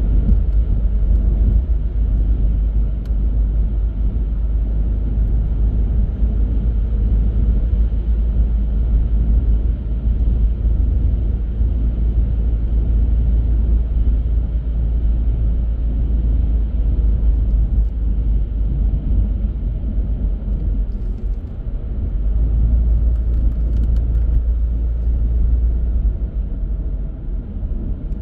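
A car driving along at a steady pace: a continuous low rumble of tyres on the road and the engine, with no sharp events.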